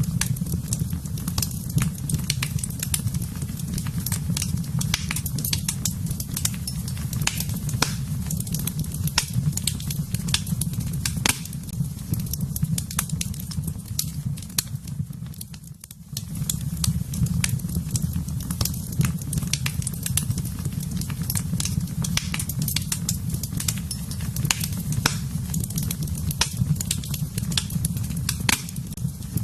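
Wood fire burning in a fireplace: irregular crackles and sharp pops over a steady low rumble of the flames. The sound dips briefly about halfway through, then carries on as before.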